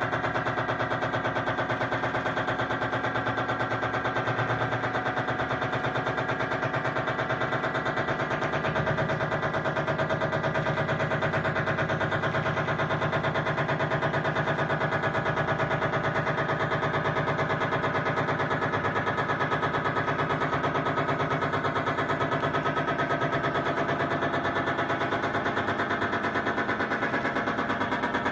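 Electronic drone of many steady tones at once, chopped by a fast, even pulsing that sounds like a rattle, running without a break.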